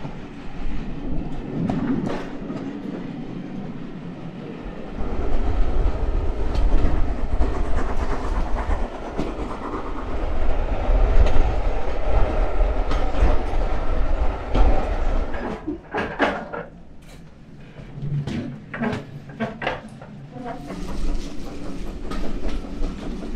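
Steam-hauled heritage train running along the line, heard from an open carriage window: a loud, steady rumble of wheels on track. About two-thirds of the way through it eases to a quieter stretch with a run of sharp clicks, then builds again.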